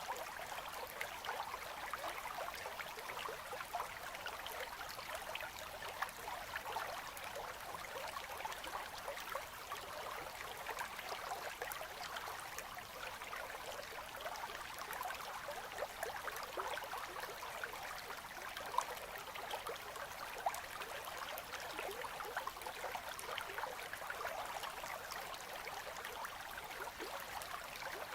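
Winter river flowing gently between ice: a steady babble of running water with many small trickles and gurgles.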